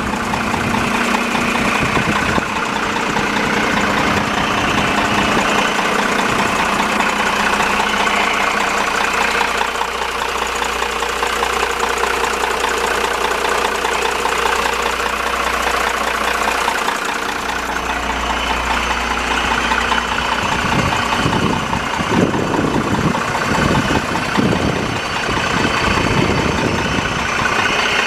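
Diesel engine of an M931A2 military 5-ton semi tractor, a Cummins 6CTA8.3 turbo-diesel, idling steadily. The low sound turns rougher and more uneven over the last several seconds.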